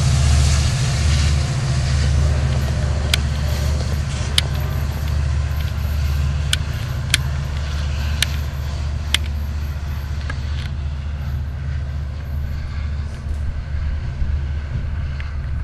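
Passenger train running past and away, a steady low rumble with rail hiss that slowly fades. About seven sharp clicks are scattered through the middle of it.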